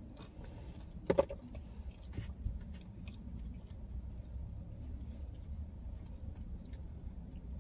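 Close-miked eating of thin pizza crust: scattered crunches and mouth clicks, the loudest crunch about a second in, over a steady low hum.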